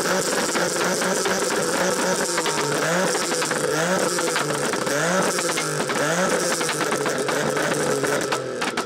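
Car engines revved hard over and over in a rev battle, the pitch sweeping up and down about once a second, with sharp exhaust pops and crackles mixed in. The revving cuts off just before the end.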